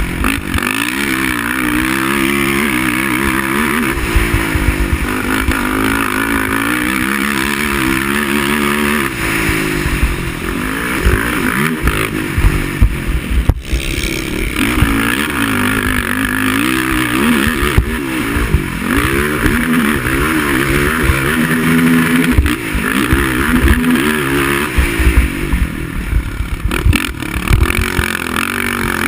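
Racing quad (ATV) engine under race load, its pitch rising and falling over and over as the rider accelerates, backs off and shifts.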